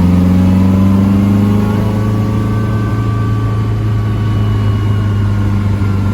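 Classic Morgan Plus 4 sports car under way, its four-cylinder engine running steadily at cruising speed, the pitch rising slightly in the first couple of seconds and then holding, with road and wind noise.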